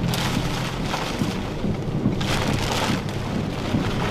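Rain beating on a vehicle in a thunderstorm, with a steady low hum underneath.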